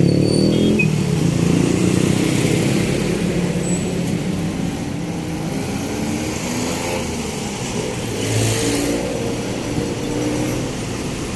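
Street traffic: motor vehicle engines running close by, loudest at the start and slowly fading, with another vehicle passing about eight seconds in.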